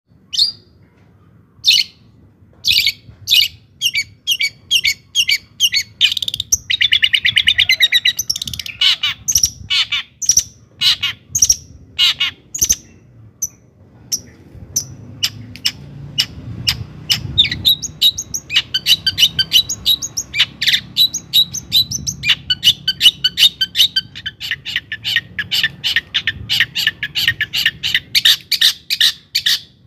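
Long-tailed shrike singing loudly: a rapid run of sharp, separate chattering notes, a harsh buzzy phrase about seven seconds in, and from about halfway on a faster, almost continuous stream of notes.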